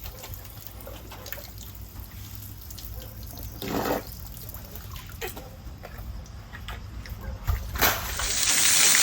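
Water trickling in a shallow stream, with a few soft knocks. Near the end a loud steady hiss takes over.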